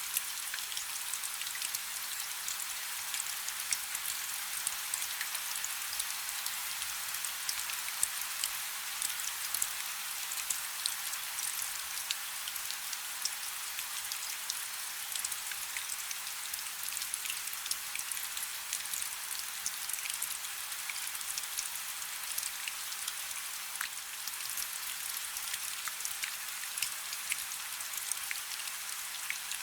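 Light rain falling steadily: an even hiss with many small drops ticking through it.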